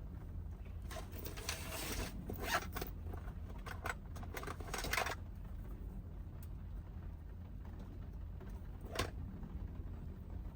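A zipper pulled in several quick scraping strokes between about one and five seconds in, then a single sharp click near the end, over a steady low rumble.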